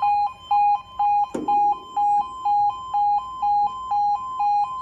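British level crossing warning alarm sounding its two-tone yodel, switching between a lower and a higher pitch about four times a second. A single sharp knock comes about a second and a half in.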